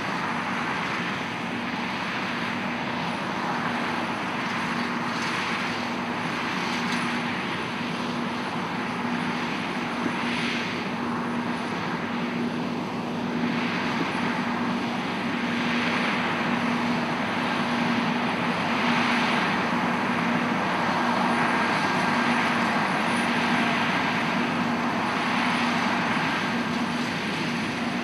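New Holland CR9090 combine harvester running at work in oilseed rape, a steady engine and machinery drone with a humming tone, slowly growing louder.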